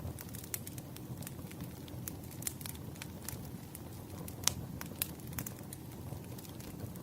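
Campfire crackling: a steady low rumble of burning wood with scattered sharp pops and snaps, the loudest about four and a half seconds in.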